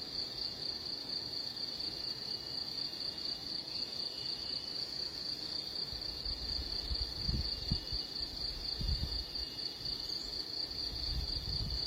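Steady high-pitched trilling of an insect chorus, finely pulsing without a break. Low rumbling thumps join in from about halfway through.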